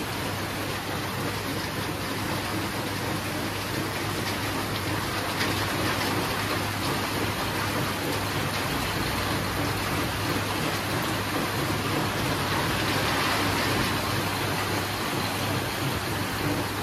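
Steady rain falling, an even, unbroken hiss of drops that swells slightly about two-thirds of the way through.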